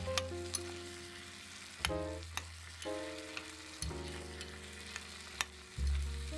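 Tiny vegetables sizzling in a small glazed ceramic pot while a little metal spoon stirs them, with scattered sharp clicks of the spoon against the pot. Background music with a steady bass line plays throughout.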